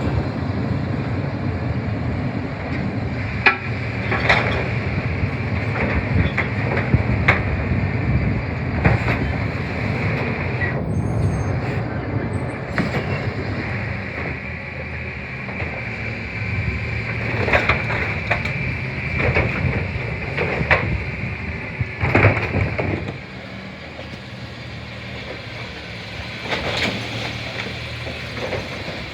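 CNG Autocar Xpeditor side-loader garbage truck running, with a steady high whine over the engine and a series of sharp clanks and knocks. The sound drops in level about 23 seconds in.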